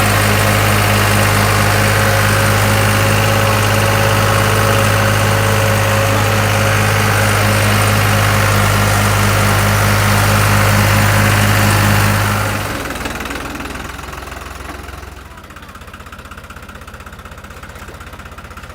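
Tractor engine running steadily with an even low throb. About twelve seconds in it drops away over a couple of seconds to a much quieter low rumble.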